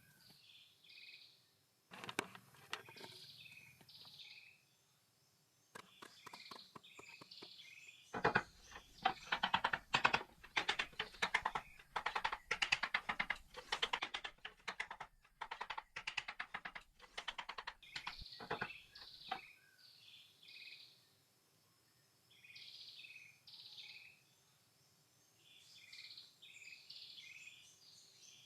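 Birds chirping over and over in short falling calls. From about 8 s to 18 s a run of rapid knocks and scrapes, likely hand-tool work, covers them and is the loudest sound.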